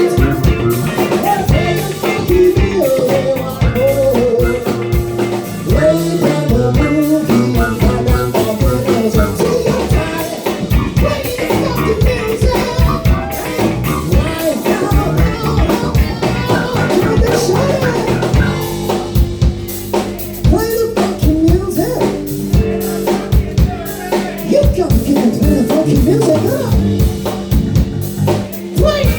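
Live band playing a funk groove, with a drum kit keeping a steady, busy beat under bass and melodic parts.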